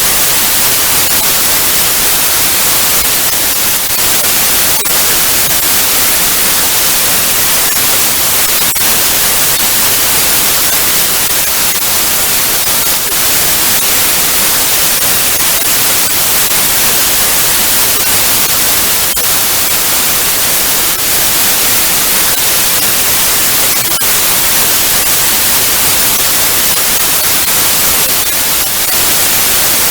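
Analog TV static: a steady, loud hiss of white noise, strongest in the high end, with faint crackles now and then.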